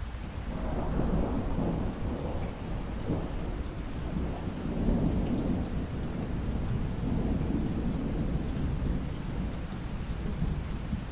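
Steady rain with a long, rolling rumble of thunder that swells in about half a second in and carries on, rising and falling, through the rest.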